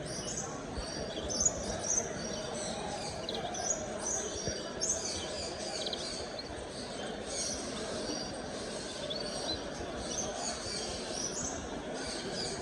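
Many small caged birds chirping and twittering at once, short high calls coming thick and fast throughout, over a steady murmur of people talking.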